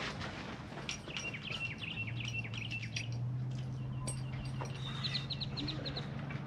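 Birds chirping: a run of chirps about a second in and a quicker run of higher notes near the end, over a low steady hum that starts about two seconds in.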